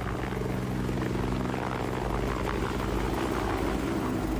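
Helicopter running steadily in flight: a constant, even engine and rotor drone.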